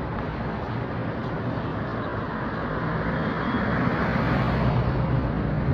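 Road traffic: a motor vehicle's engine running close by, its noise swelling over the last few seconds as it draws near.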